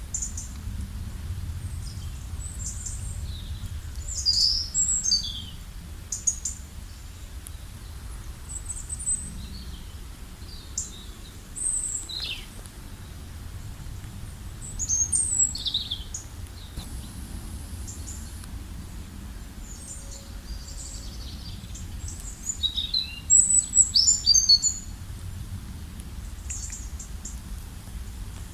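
Several songbirds singing and calling in high chirps and short trills, with the loudest bursts about four, fifteen and twenty-four seconds in, over a steady low rumble.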